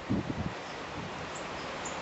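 Wind blowing, with a steady hiss and a few low thumps of wind buffeting the microphone in the first half second.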